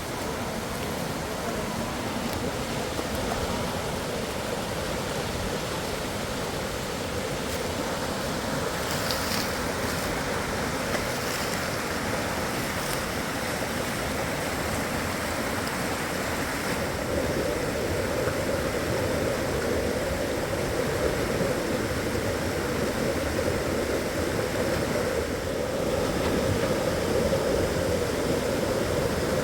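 Rushing river water: a steady, even rush that grows a little louder after the middle.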